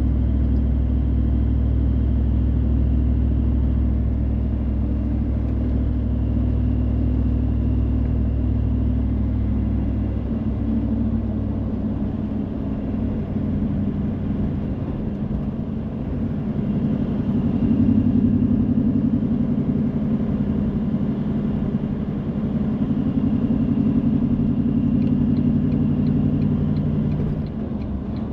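A car being driven, heard as a steady low rumble of engine and road noise that swells twice in the second half, with faint regular ticks near the end.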